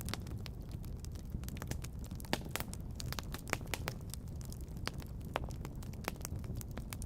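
Fire crackling in a fireplace: irregular sharp pops and snaps, several a second and varying in loudness, over a steady low rumble.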